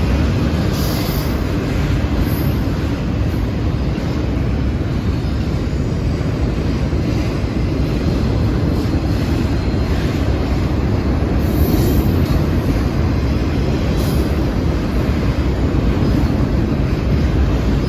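Train cars rolling past, a steady loud rumble of wheels on rail with a few brief high-pitched squeaks.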